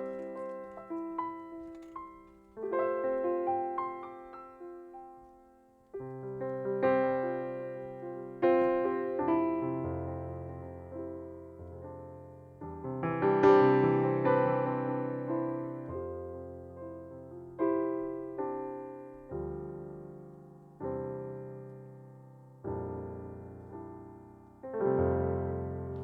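Solo piano playing slow chords, each struck and left to fade, with deep bass notes joining about six seconds in.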